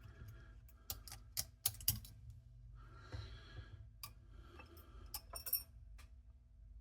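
Light, scattered clicks and taps of small mechanism parts and tools being handled during cassette deck tape transport reassembly, with a brief rustle about three seconds in, over a faint steady hum.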